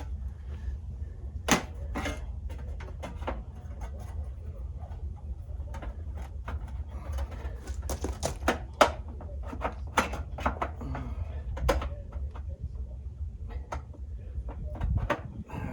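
Irregular sharp clicks and knocks from hands working with hard objects, over a low steady rumble.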